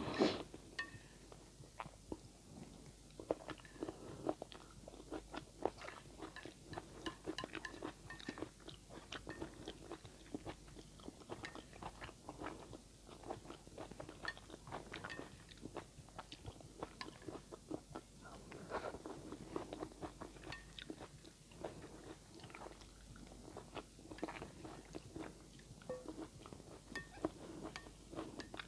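A person chewing food close to the microphone, with many small irregular clicks and mouth smacks.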